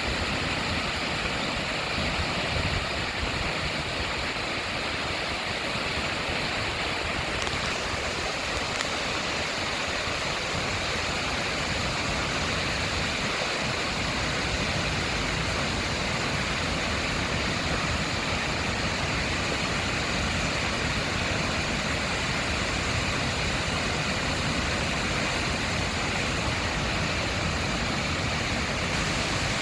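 Waterfall in spate after heavy rain: a steady, loud rush of fast-flowing water.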